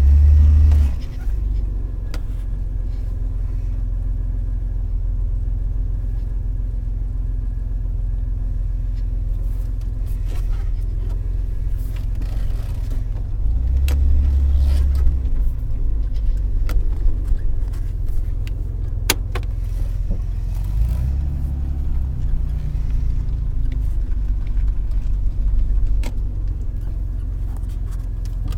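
Car engine idling after a cold start: a steady low rumble that swells briefly a few times, around halfway through and again a little later.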